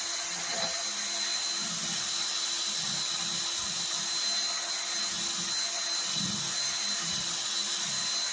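A power drill running steadily at speed, with a steady high whine, spinning a hone inside a minibike's steel front fork tube. Uneven scraping comes from the hone working the rough, rusty inside of a fork tube that is stiff for its first few inches.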